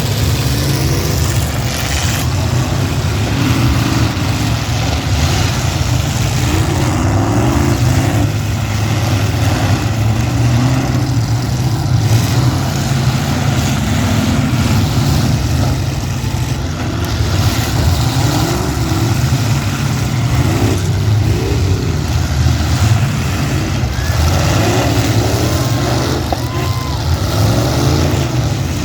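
Several demolition derby cars' engines running hard together, with a heavy low rumble and repeated revs rising and falling.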